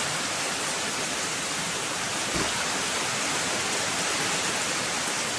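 Heavy rain pouring down, a steady hiss of falling water. A faint low thump about halfway through.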